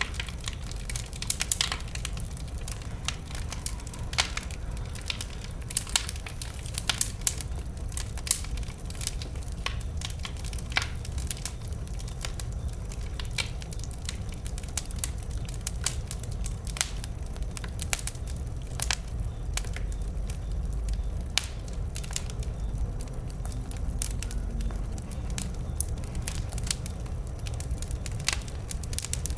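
Wood bonfire burning, with frequent irregular sharp crackles and pops over a low, steady rumble of flame.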